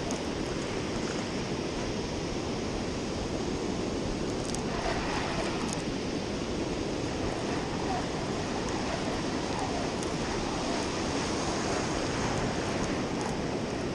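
Ocean surf washing on a sandy beach, a steady rushing wash with wind on the microphone, and a couple of faint clicks about five seconds in.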